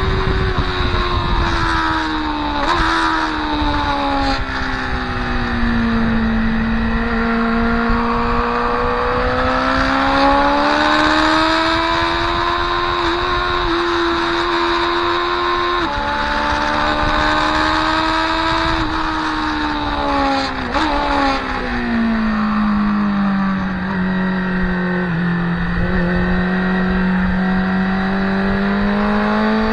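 Motorcycle engine heard onboard at speed on a race track, its revs falling and rising over several seconds at a time, with sudden steps in pitch at gear changes. Steady wind rush on the microphone underneath.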